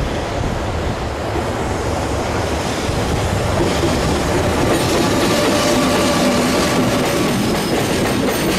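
JR Freight EF210 electric locomotive hauling a container freight train past: a steady rumble of wheels on rail. It grows louder from about halfway through as the locomotive and the first container wagons go by.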